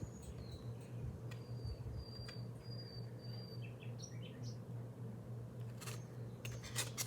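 A series of short, high chirps, one after another in the first half, over a steady low hum, with a couple of sharp clicks near the end.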